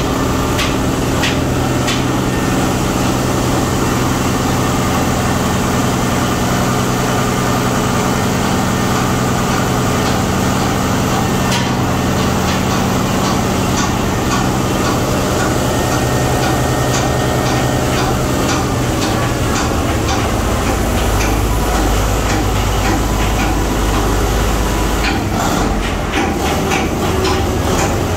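Marine diesel engine running loudly in a ship's engine room, a steady drone with scattered metallic clicks and knocks. About twenty seconds in the engine note shifts lower and heavier.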